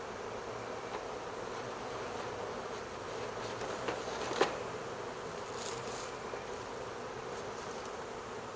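A honey bee swarm buzzing: a steady hum of many bees' wings. A single sharp tap about halfway through stands out above the buzz.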